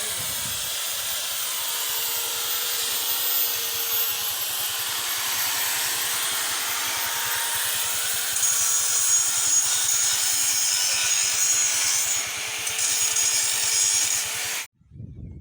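A power tool working on a walking-tractor handle, giving a steady harsh hiss. It grows brighter about halfway through and cuts off suddenly near the end.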